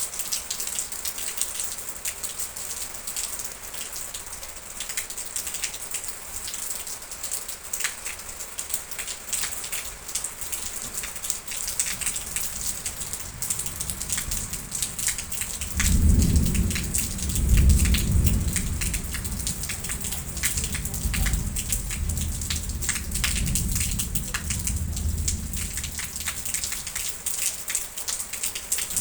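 Steady heavy rain with many distinct drop hits. About halfway through, a roll of thunder builds, is loudest for a couple of seconds, then rumbles on and fades over about ten seconds.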